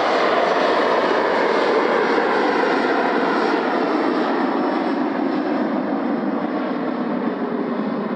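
Jet airliner's engines roaring as it passes, with faint whining tones sliding slowly down in pitch while the sound gradually fades.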